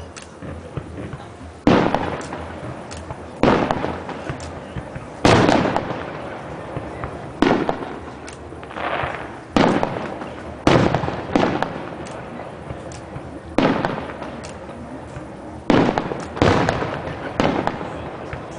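Fireworks display: aerial shells bursting one after another, a loud bang every second or two, each followed by a rolling echo, with fainter crackles in between.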